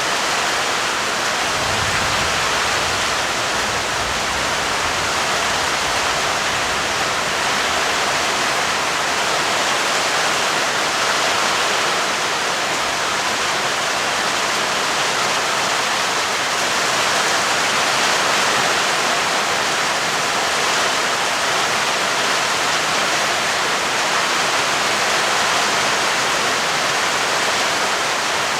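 Steady heavy rain with an even hiss, and a soft low rumble of distant thunder from about two seconds in that fades after a few seconds.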